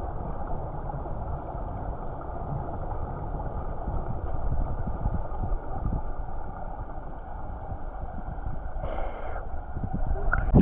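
Muffled rumble and gurgle of pond water, heard through a phone microphone held under the surface. It is steady throughout, with a sharp knock or splash right at the end.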